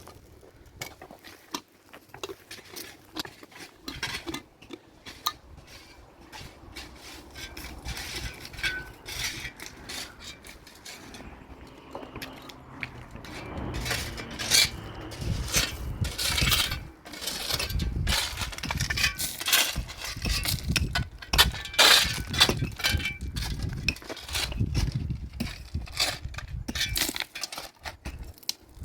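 Dishes and pots being handled: repeated clinks and knocks, getting busier and louder about twelve seconds in, with a low rumbling noise underneath.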